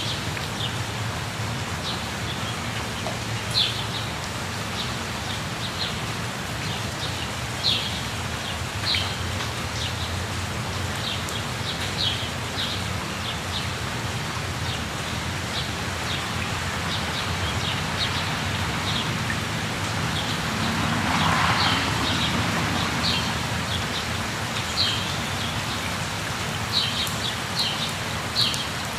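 Steady rush of a waterfall, with birds giving short high chirps at scattered intervals; the rushing swells louder for a moment about three-quarters of the way through.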